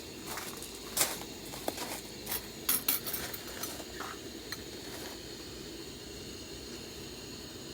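A handful of light clinks and knocks of utensils against dishes in the first few seconds, over a steady low background hum.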